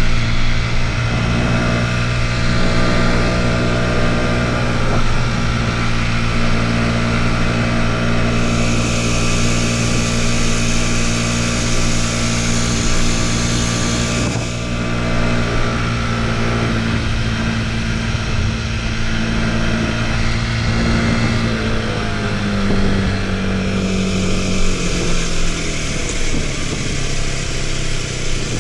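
Motorcycle engine running at a steady pace, its pitch shifting only slightly, with a high hiss that swells twice.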